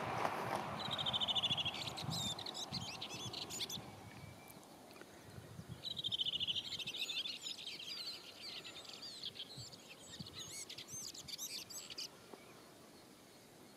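Wild birds calling by the shore: several rapid trilled calls and bursts of quick, wavering chirps, in two bouts about a second in and from about six to twelve seconds in. A rushing noise fades away over the first couple of seconds.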